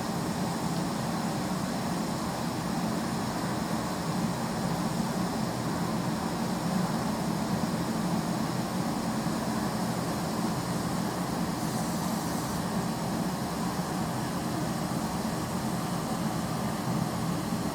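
Air lance blowing into a wood fire in a metal bin: a steady rushing drone with no breaks.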